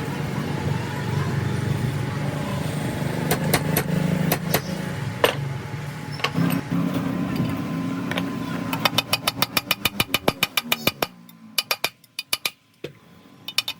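A motor running with a steady low hum and occasional clicks. About nine seconds in comes a quick run of clicks, about seven a second. Near the end the hum stops and only a few clicks remain.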